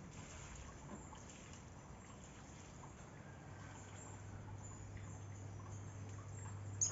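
Faint outdoor ambience: a soft hiss with scattered small high chirps, a low steady hum that comes in about halfway, and one brief sharp high chirp near the end.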